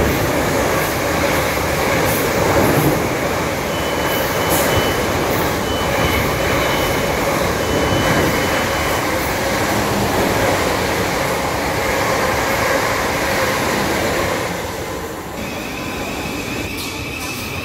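South Western Railway passenger trains running through the station: a steady rumble of wheels on the track, with a thin high tone coming and going in short pieces. About fifteen seconds in the rumble eases and a steady high tone sets in.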